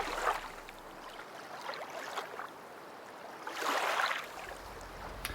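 Water lapping and washing in soft swells, the largest about three and a half to four seconds in.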